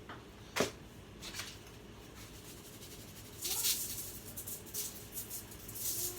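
Kitchen handling sounds: one sharp click about half a second in, then a run of short, dry rustling bursts from about three and a half seconds in.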